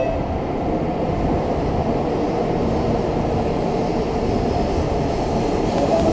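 N700-series Shinkansen train pulling into the platform at low speed, a steady rumble of wheels and running gear.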